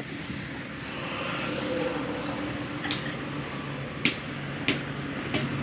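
Motorcycle engine idling steadily with its exhaust refitted, a low even hum, with a few sharp clicks in the second half.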